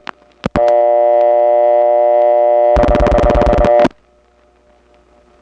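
Telephone line in a number one step-by-step office: a few switch clicks, then a buzzy, many-pitched dial tone, then a rotary dial pulsing out about ten clicks at roughly ten a second. The tone cuts off as the pulsing ends and the line goes to faint hiss, the supervision test that gives no tone.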